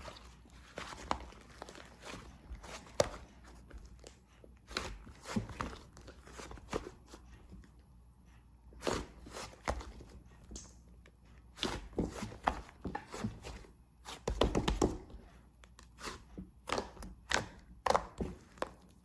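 Irregular light taps, clicks and knocks of small objects being handled, with a denser run of knocks about three-quarters of the way through.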